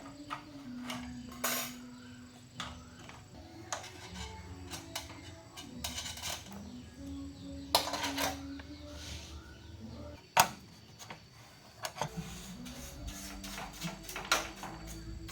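Scattered small clicks and taps of tools and parts being handled, with a couple of sharper knocks, over faint background music.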